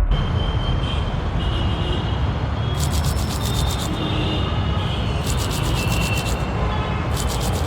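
Steady loud rushing noise with a deep rumble, with bursts of fast high-pitched ticking about three seconds in, around five to six seconds in and near the end.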